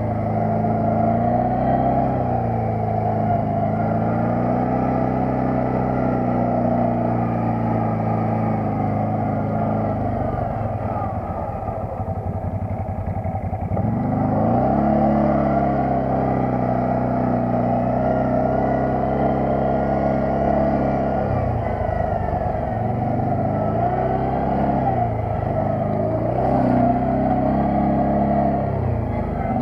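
Quad bike (ATV) engine running on the move, its pitch rising and falling with the throttle. About ten seconds in the engine note drops away for a few seconds, then climbs again as it picks up speed.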